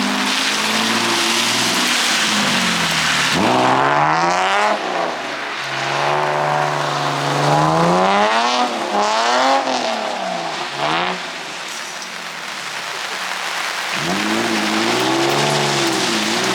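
A car engine revving up and dropping back several times while the car is driven through drifts, over a steady hiss of noise.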